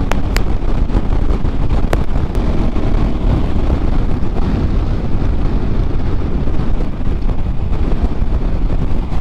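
Wind rushing over the microphone of a KTM motorcycle at riding speed, with the bike's engine and road noise blended underneath. A few short clicks in the first two seconds.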